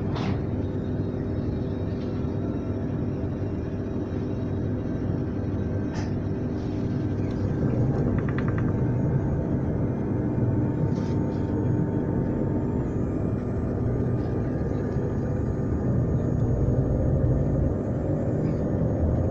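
Transilien line P train running with a steady rumble and several steady machine tones, a few faint knocks, and a whine that rises in pitch over the last few seconds.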